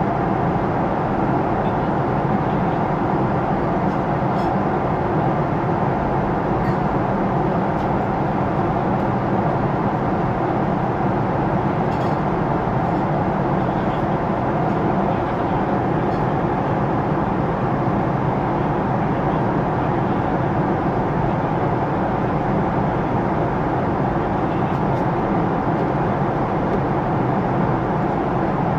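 Steady cabin noise of a Boeing 777-300ER airliner in flight, an even roar of engines and airflow with a few faint clicks.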